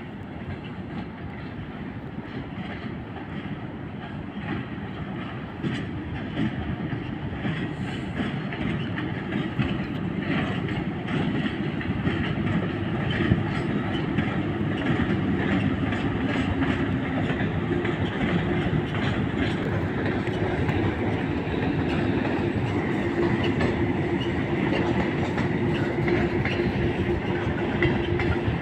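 Freight train rolling past, its wheels clicking over the rail joints, the sound growing louder over the first several seconds. A steady hum joins in the second half.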